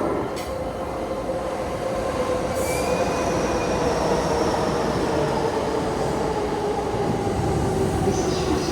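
Electric commuter train pulling into the station platform and braking, its whine falling slowly in pitch as it slows over a steady rumble, with brief high squeals near the end.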